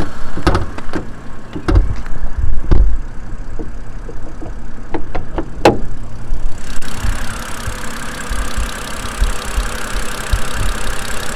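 BMW 328i straight-six engine idling, heard from inside the cabin, with a series of sharp clicks and knocks from controls being handled in the first half. About two-thirds of the way in, a steady rushing hiss comes in and continues over the idle.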